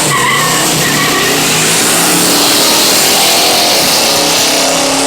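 Drag-racing vehicles, a small-tire Mustang and a truck, running at full throttle down the strip: loud, steady engine and exhaust noise.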